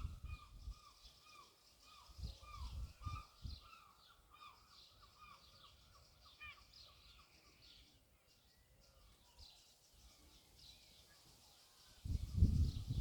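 Several small birds chirping, with short repeated notes going on throughout. Bursts of low rumble come about two to three seconds in and again near the end.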